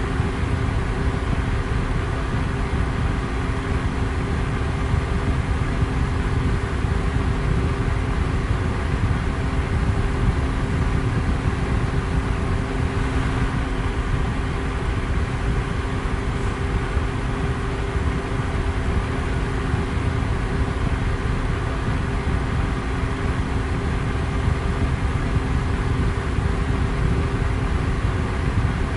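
Electric fan running steadily: a constant rush of moving air with a low hum and a couple of steady motor tones underneath.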